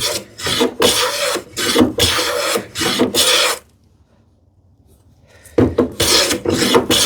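Hand plane shaving a wooden drawer front in a run of quick, rasping strokes, one after another. After a pause of about two seconds, a few more strokes follow near the end.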